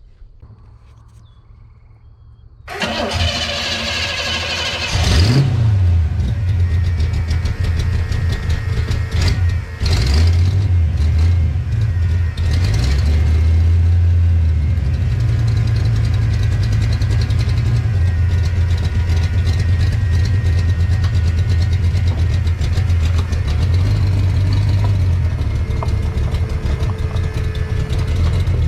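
1972 Chevrolet C10 pickup engine cranked over by the starter for about two and a half seconds, then catching and revving up. It gets a couple of brief throttle blips before settling into a steady idle.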